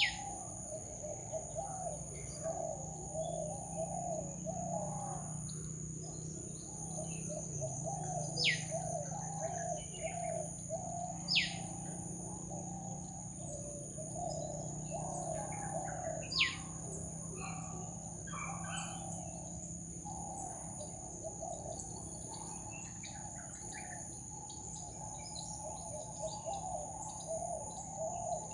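Tropical forest ambience: birds calling over a steady high insect drone, with a low repeated warbling chatter throughout and four sharp, falling whistles scattered through it.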